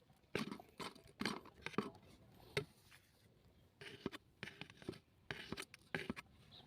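Irregular short scratching and scraping sounds, about a dozen of them in clusters, with a pause of about a second midway.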